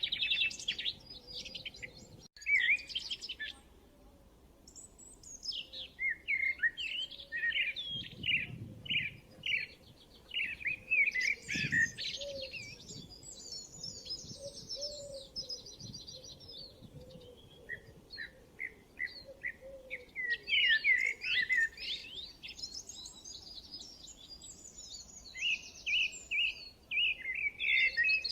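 Several songbirds chirping and singing, with overlapping quick high notes, trills and warbles and a short lull about four seconds in.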